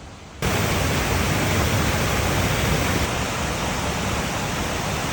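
Steady, loud rush of falling water, starting abruptly about half a second in and cutting off suddenly.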